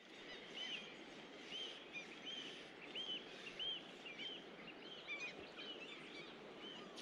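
Faint jungle ambience: a bird repeating short, high, arched chirps, about one or two a second, over a steady background hiss.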